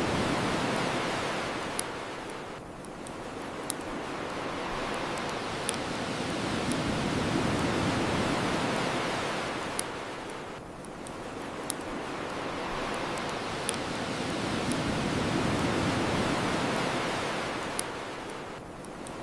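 Ocean waves washing onto the shore, rising and falling in slow swells about every eight seconds, with single sharp pops from a crackling bonfire every couple of seconds.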